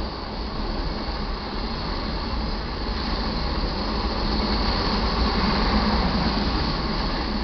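Auto carrier freight train rolling past on the main line: a steady noise of wheels on rail that grows gently louder toward the end and then eases.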